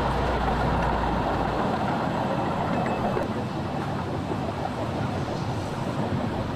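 Steady running noise of a small park-railway train heard from a passenger car, with wheels rolling on the rails. A low rumble under it drops away about a second and a half in.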